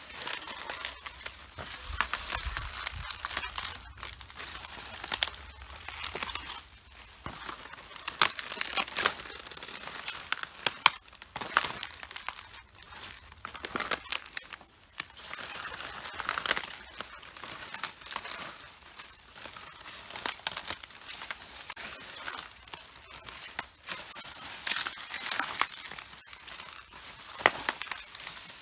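Footsteps crushing red cabbage: crisp leaves crunching, crackling and tearing underfoot, with sharp snaps, step after step every second or two.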